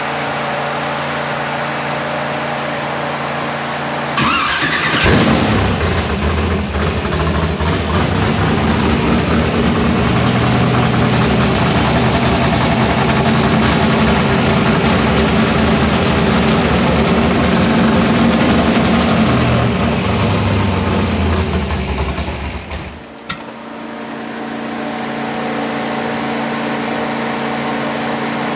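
Rebuilt 305 small-block Chevy V8 with open headers started up: it cranks briefly and catches about four seconds in, runs loud and uneven, then dies about 23 seconds in, a shutting-off that they put down to the fuel pump. A steady hum runs before the start and after the engine stops.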